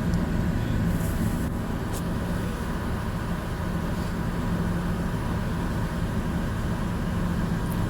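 Steady low engine hum of a vehicle, even throughout, with a few faint ticks.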